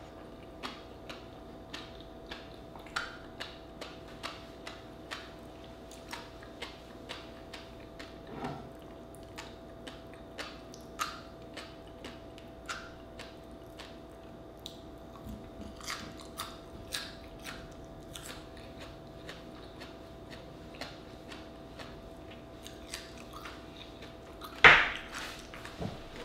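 Close-miked chewing of raw oyster with fish roe and radish: a run of small sharp clicks and crunches, about one or two a second, with one much louder crunch near the end.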